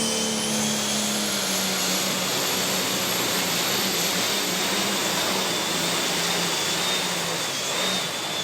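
Turbocharged diesel super stock pulling tractor running at full throttle under load, with a high turbo whine that climbs in pitch as it spools up and then holds steady over the engine's loud running. The sound cuts off suddenly near the end.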